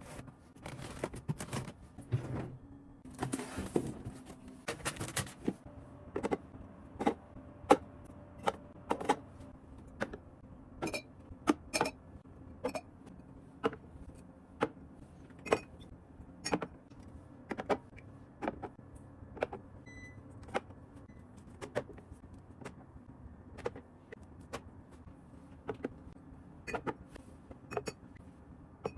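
Hard objects being handled, making irregular sharp clicks and knocks about once a second, some with a brief light ring. Rustling runs through the first few seconds.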